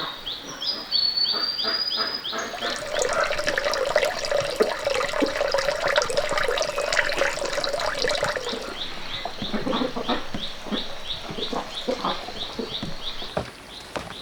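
Short high chirps repeat about three times a second from a calling animal, with a brief whistled bird call in the first two seconds. Dense rustling and clicking of movement is loudest in the middle and eases off after about eight seconds.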